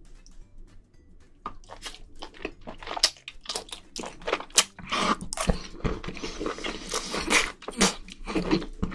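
Close-miked eating sounds: spicy stew noodles slurped in and chewed, with many wet clicks and smacks of the mouth starting about a second and a half in.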